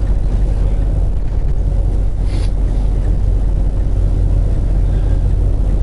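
Steady low drone of a semi truck's diesel engine and road noise heard inside the cab while driving.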